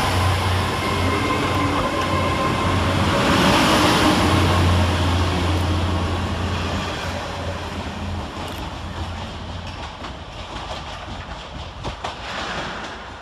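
Great Western Railway Class 800 bi-mode train running on its underfloor diesel engines, a steady low hum with whining tones as it moves through the station. The hum is loudest about four seconds in, then fades away, with wheels clicking over the rail joints near the end.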